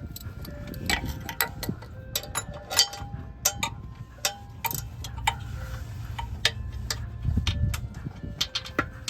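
Hand ratchet clicking in short runs of strokes, with sharp metallic clinks, as the torque converter bolts are worked loose.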